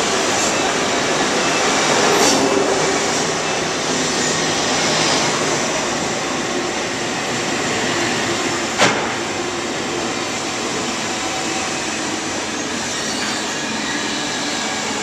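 SBB double-deck passenger train rolling in along the platform, its wheels making a steady rumble on the rails with faint wheel squeal. A single sharp clack stands out about nine seconds in.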